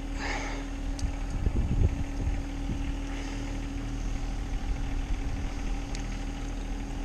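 A steady engine hum, like a vehicle or machine idling, with one constant drone throughout. There is a brief rustle near the start and a couple of faint clicks.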